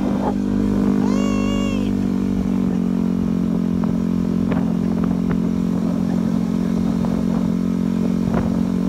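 Motorcycle engine running at a steady speed, its pitch dropping slightly about three seconds in. A brief high pitched call or tone is heard about a second in.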